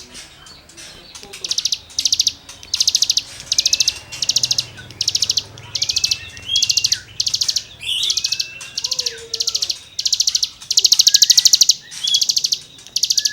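A cigun songbird singing rasping 'gesekan' phrases: short, fast, scratchy trills about once a second, with thin rising and falling whistles in between. It starts after a softer first second or so.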